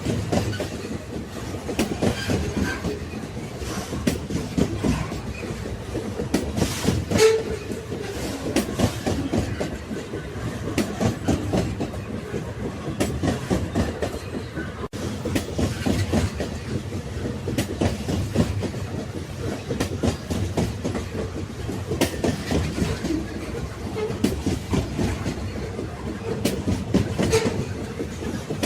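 Railway carriages rolling along the track: a steady rumble with continual clickety-clack and rattling knocks from the wheels over the rails. The sharpest knock comes about seven seconds in, and there is a momentary break near the middle.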